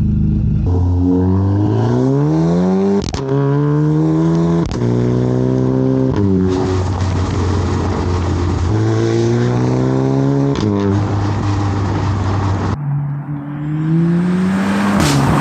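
Audi TT engine through a custom exhaust, accelerating hard several times: its note climbs in pitch, holds and breaks off, with a few sharp cracks from the exhaust between the pulls.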